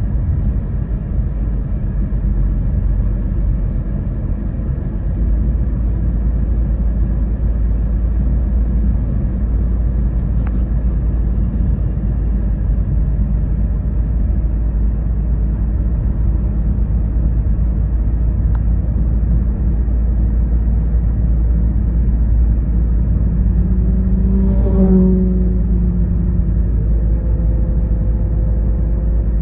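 Car driving on the road: a steady low rumble of engine and tyres. About 25 seconds in a brief, louder pitched sound swells and fades, and a faint steady hum follows it.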